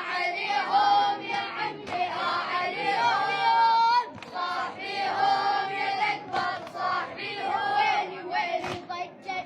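A boy's high voice singing, holding long notes that slide up and down in pitch, with short breaks between phrases.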